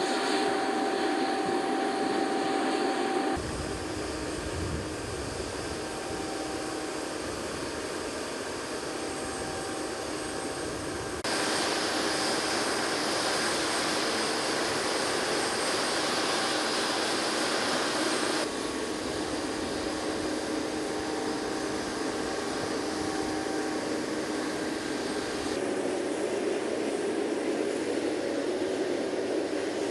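Jet engines of an E-3A AWACS aircraft running with a steady rush and whine. The sound changes abruptly in loudness and tone several times, as the shots change.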